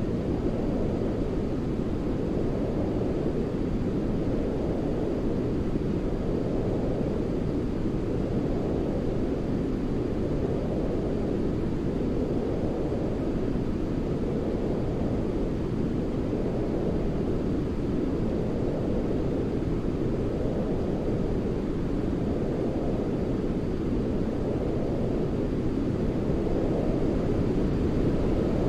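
Steady, deep sleep noise for soothing a baby, closer to a low rumble than a hiss and swelling gently every few seconds.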